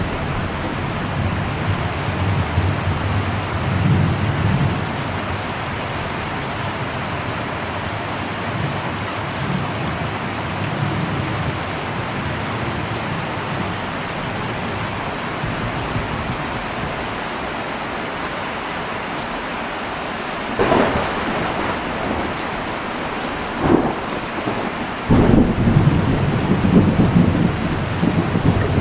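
Heavy rain drumming steadily on an old metal roof, with thunder rumbling low in the first few seconds. Near the end come two sharp cracks of thunder, followed by a loud, long roll of thunder.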